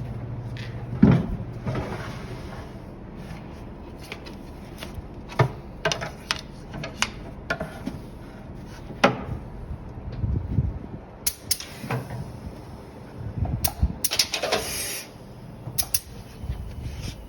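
Irregular knocks, clicks and clatter of things being handled and set down, with one loud thump about a second in and a short scraping rush near the end.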